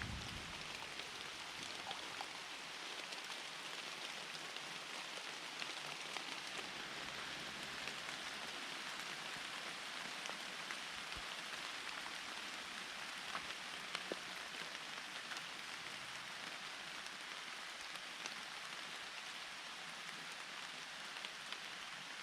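Steady rain, an even hiss with scattered single drops ticking sharply.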